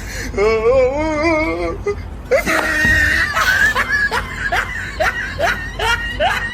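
A wavering, drawn-out vocal cry, then a person laughing in quick repeated bursts that cut off suddenly at the end.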